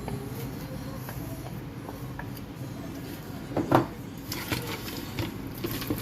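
Goat meat being mixed by hand with palm oil, ground potash and brain: a utensil knocking and scraping against the dish. One louder knock comes a little past halfway, followed by a quicker run of clicks and scrapes.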